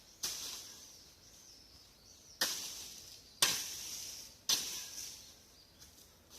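Cut branches and dry leaves rustling in four sharp swishes, each dying away over about a second, as storm-fallen brush is cleared by hand.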